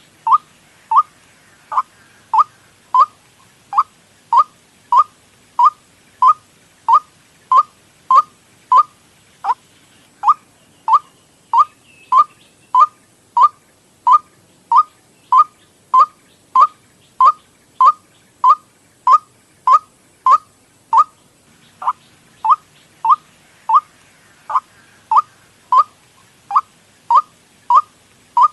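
White-breasted waterhen lure call: short single notes repeated at an even pace, about one and a half a second, with a brief break about three-quarters of the way through.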